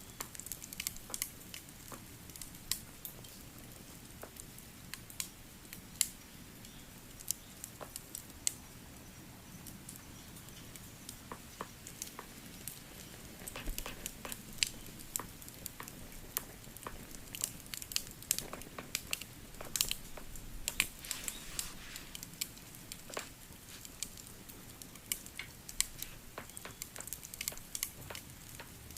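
Wood fire crackling: irregular sharp pops and snaps, several a second and of uneven loudness, over a soft low rumble.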